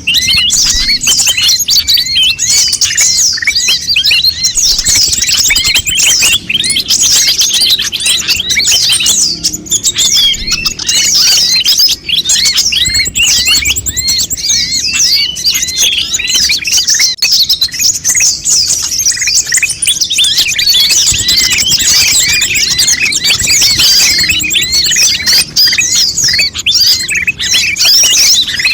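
Konin birds chirping in a busy, continuous chorus: many short, high, rapidly repeated chirps and quick sweeping notes overlapping without a break.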